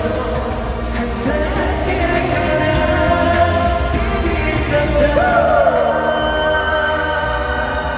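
Live amplified pop song: a male voice singing with gliding, held notes over a steady band backing with a firm bass line.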